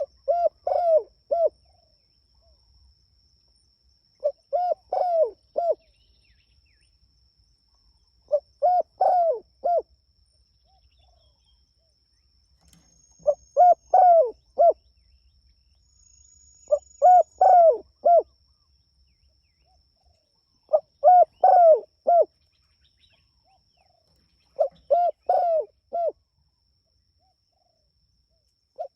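Spotted dove (tekukur) cooing: seven phrases of three or four low coos, one about every four seconds.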